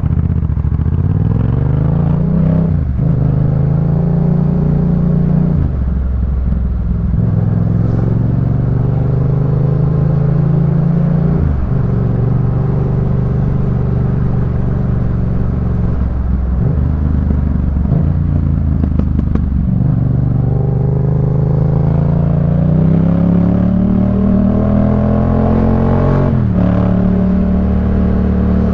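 2018 Yamaha MT-07's parallel-twin engine running through a Jeskap K4 full aftermarket exhaust while riding, revving up and dropping in pitch at each gear change about half a dozen times. Near the end there is a long rising pull before a final shift into a steadier note.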